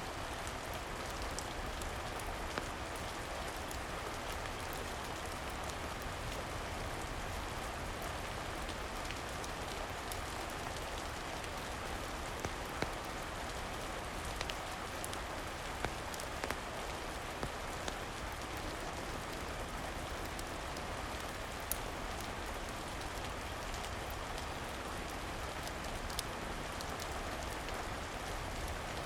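Steady rain falling, an even hiss of drops, with scattered sharp ticks and a few louder pops.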